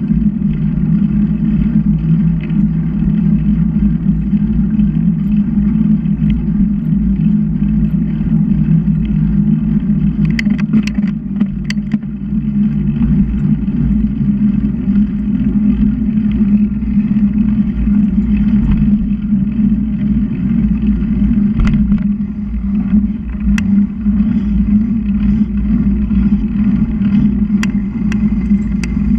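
Steady wind and road rumble on the microphone of a camera riding on a moving bicycle, with a few sharp clicks.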